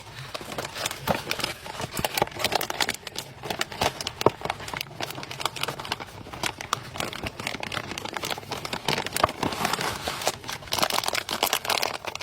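MRE plastic and foil pouches crinkling as they are handled, a busy run of small crackles and rustles.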